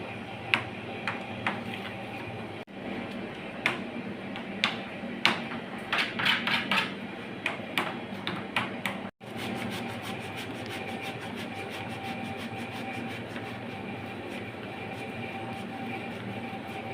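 Irregular sharp knocks and clatter for the first half, then, after an abrupt break, a steady hum.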